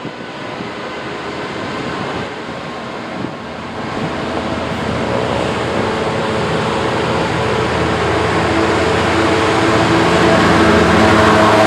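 A train approaching, its sound growing steadily louder, with a hum of several steady tones building from about four seconds in.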